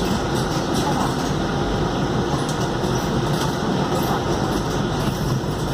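Steady cabin noise inside a Scania K280UD double-decker bus: the rear-mounted engine running along with rumble and rattle from the body, with no distinct events.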